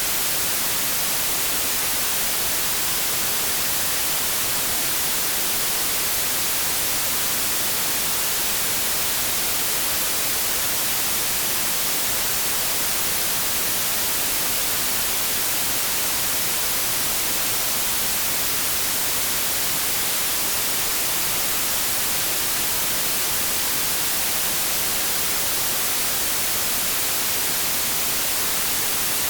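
Synthetic white noise: a steady, unchanging hiss, strongest in the high frequencies.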